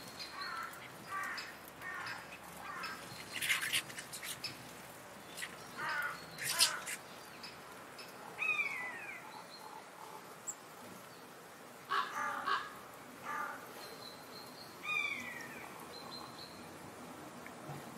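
Birds calling: a series of harsh, raspy calls at irregular intervals, with a short falling whistled note about halfway through and again near the end.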